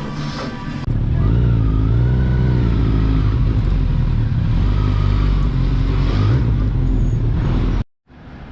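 Motorcycle engine running loud through an open exhaust, its pitch rising and falling gently as the throttle is worked. It cuts in suddenly about a second in after a moment of music, and cuts off abruptly near the end.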